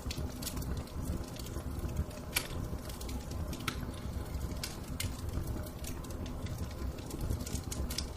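Wood fire in a fireplace crackling: irregular sharp pops and snaps, a dozen or so, over a steady low rumble of flame.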